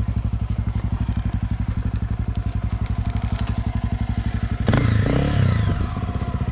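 Dirt bike engine idling with a steady, even pulse, then briefly revved up and back down about three-quarters of the way through.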